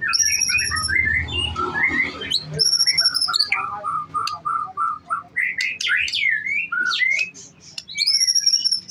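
White-rumped shama (murai batu) singing a fast, varied song of whistled phrases, with a run of evenly repeated lower notes partway through. Three short, harsh, buzzy rattles break in: one at the start, one about two and a half seconds in, and one near the end.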